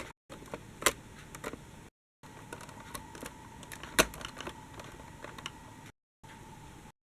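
Scattered light clicks and taps over a faint steady hum, broken by two short drops to dead silence; the loudest click comes about four seconds in.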